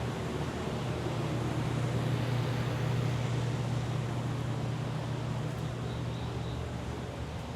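Steady low machine hum that swells slightly and then eases off. Near the end a faint insect chirps in quick pulses, about four a second.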